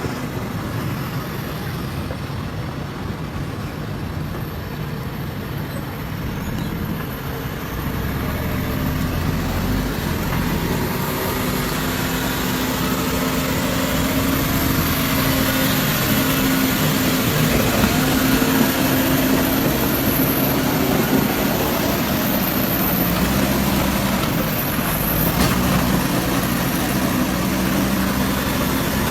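Heavy truck engine running steadily, growing louder from about eight seconds in.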